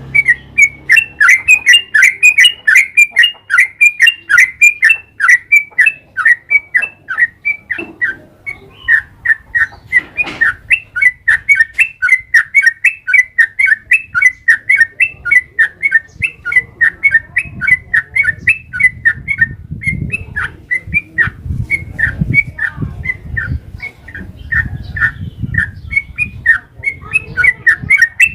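Yellow-vented bulbul (trucukan) singing a long rolling song: an unbroken run of short chirpy notes, about three to four a second.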